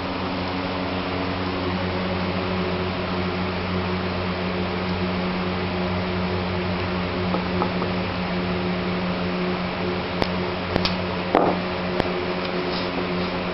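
A steady mechanical hum, like a fan running, with a few sharp clicks and taps about ten to twelve seconds in.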